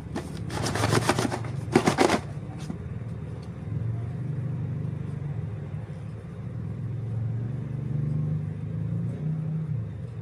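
Rattling and clicking as a LEGO set box is handled, the loose pieces and bags shifting inside, for about a second and a half. A low, wavering background rumble follows.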